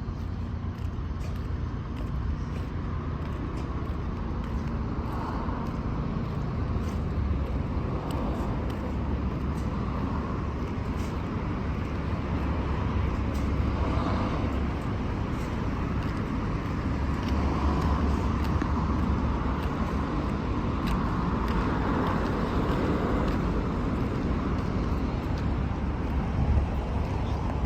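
Street traffic: a steady rumble of cars driving past, swelling and fading as vehicles come and go.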